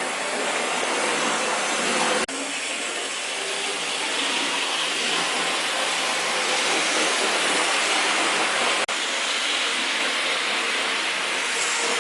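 Tyco HO-scale model GG-1 electric locomotive running on the track: a steady whir of the small electric motor and gears with wheels on the rails. It cuts out for an instant about two seconds in and again near nine seconds.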